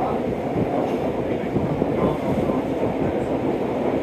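Steady rumbling and rattling of a moving vehicle.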